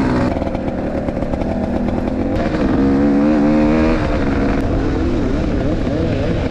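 Enduro motorcycle engine running at low revs under small throttle changes, its pitch wavering up and down, with a brief rise in revs about halfway through.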